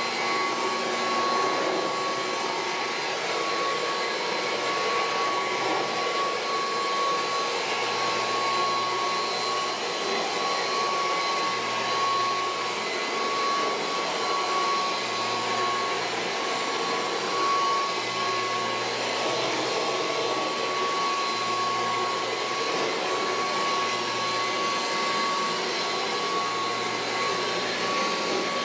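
Kirby Heritage II upright vacuum cleaner running steadily with a high motor whine. A low rumble swells and fades about every three seconds.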